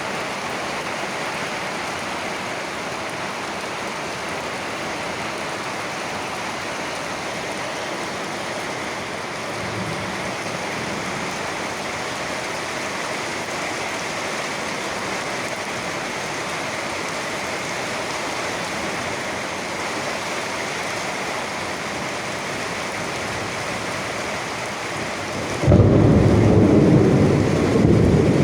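Steady rain. There is a faint low rumble about ten seconds in, then near the end a sudden loud thunderclap that keeps rumbling.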